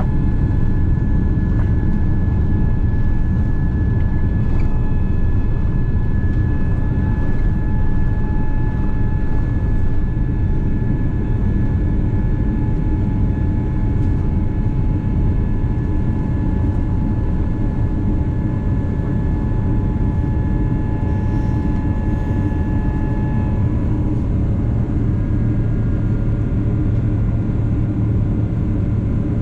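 Boeing 777-300ER cabin noise from a forward window seat: a steady roar of airflow and GE90-115B engine rumble, with several high steady whining tones over it. About three-quarters of the way through, the whining tones shift to new pitches, as when the engine power is changed.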